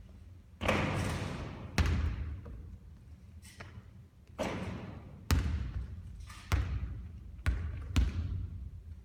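A basketball bouncing on a hard court, with several sharp bounces at uneven intervals and longer rushing noises between them.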